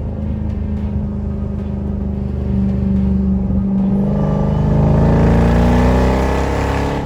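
Ram TRX's supercharged 6.2-litre Hemi V8 on a straight-piped exhaust with the mufflers cut off: running, then accelerating hard from about halfway through, the exhaust note climbing in pitch and getting louder before cutting off abruptly.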